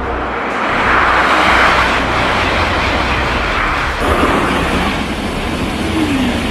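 High-speed train running, a steady rushing noise that swells about a second in.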